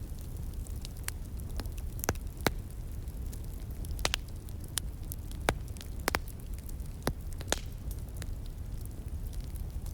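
Wood fire crackling, with sharp, irregular pops about once a second over a steady low rush, the flowing stream in the background.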